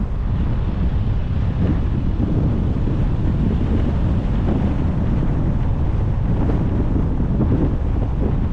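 Steady low wind rumble buffeting the microphone of a moving car, with its road noise underneath.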